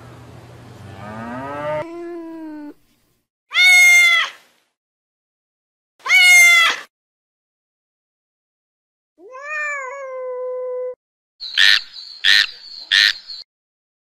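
A calf's short moo rising in pitch, then a series of kitten meows: two loud high-pitched meows a couple of seconds apart, a longer meow, and three short quick cries near the end.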